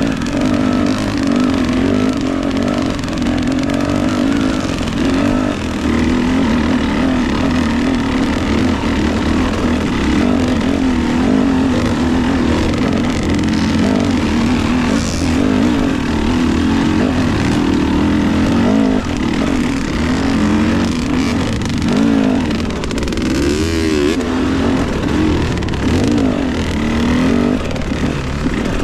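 Off-road dirt bike engine running continuously, its pitch wavering up and down as the throttle is worked, with a steady rush of noise and occasional knocks over it.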